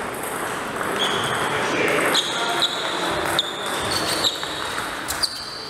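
Table tennis rally: the celluloid-type ball clicking sharply on bats and table, about five hits starting about two seconds in, each with a short high ring.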